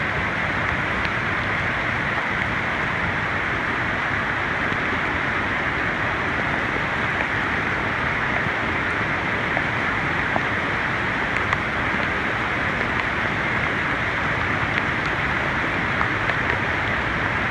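Flash-flood water rushing in a torrent down a street, a steady, loud, unbroken rush of water.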